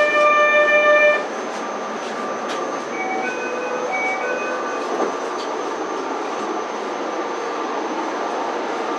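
A narrow-gauge (762 mm) train sounds one horn blast about a second and a half long, then runs on with a steady rumble and a thin whine. About three seconds in, a two-note chime sounds twice.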